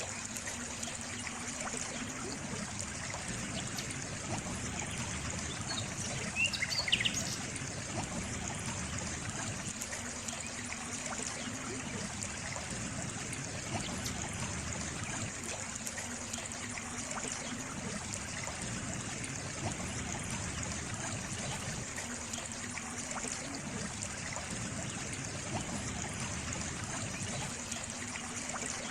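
Water trickling and flowing steadily. About six seconds in there is a brief high-pitched sound over the water.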